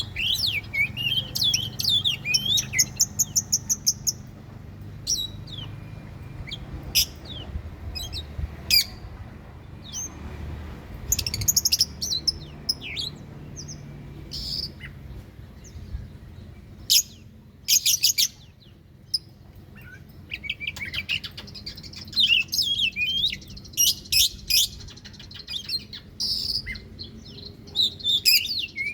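Oriental magpie-robin (kacer) singing: a varied run of loud whistles, chirps, sliding notes and quick rattling trills, broken by short pauses and thinning out for a few seconds midway. It is a lure song of the kind played to make a caged magpie-robin fire up and sing back.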